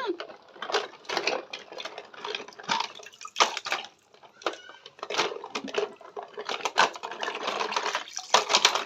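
Water splashing and trickling in irregular bursts as toy cars are washed by hand.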